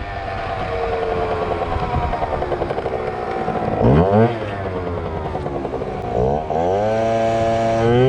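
Yamaha ZR Evo two-stroke scooter engine being revved. It gives a quick sharp blip up and down about four seconds in, then climbs again and holds at a higher pitch near the end, as the rider works the throttle for wheelies.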